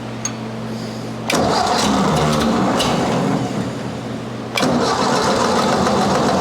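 1958 Ford 851 tractor's four-cylinder gas engine being cranked over by the starter in two tries of about three seconds each, the first about a second in and the second at about four and a half seconds, without catching: the fuel was still turned off.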